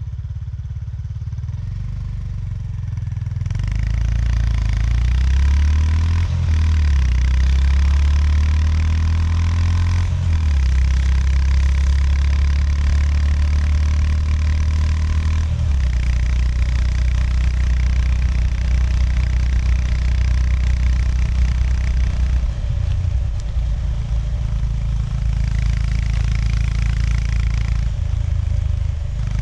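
Honda GB350S's air-cooled single-cylinder engine on the move. It picks up a few seconds in and accelerates through several upshifts, the pitch climbing and dropping at each change, then runs steadily at cruising speed.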